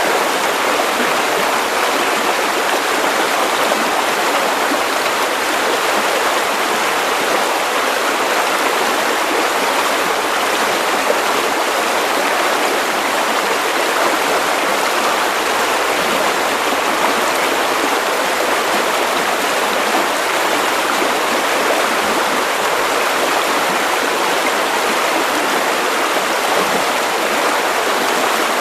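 Steady white noise for baby sleep: an even, unchanging hiss with little deep rumble.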